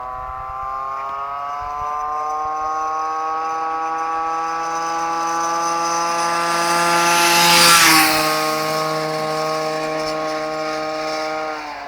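Two-stroke moped engine with a 75 cc Pinasco cylinder kit and Polini SP exhaust at full throttle, its pitch climbing steadily as it gathers speed. It is loudest about eight seconds in, where the pitch drops suddenly, then it runs on steadily and drops in pitch again near the end.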